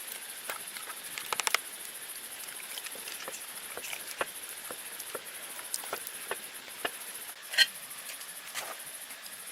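Scattered light clicks and taps over a steady high hiss, with a quick run of clicks about a second and a half in and a short, louder chirp-like sound near the end.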